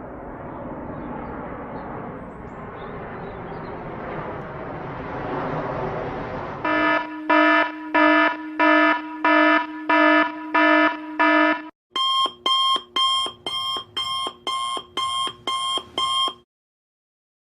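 A swelling noisy hiss for the first six seconds or so, then electronic alarm beeps: a lower pulsing beep just under twice a second. After a brief break comes a higher, brighter alarm-clock style beep about twice a second, which stops about a second before the end.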